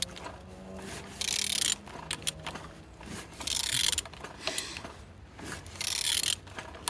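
Peugeot/BMW EP6 1.6-litre four-cylinder engine being turned over by hand with a wrench. Three short scraping strokes come about two and a half seconds apart, showing that the engine turns freely.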